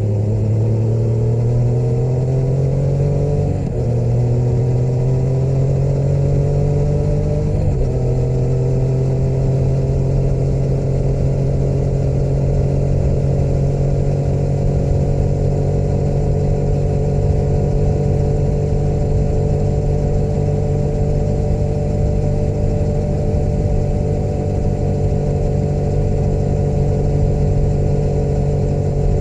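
Motorcycle engine accelerating with two quick upshifts, at about 3.5 and 8 seconds in, the pitch dropping at each shift, then holding a steady cruise.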